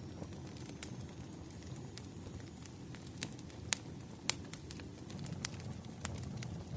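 Wood fire crackling: irregular sharp pops and snaps, a few louder ones, over a low steady rumble.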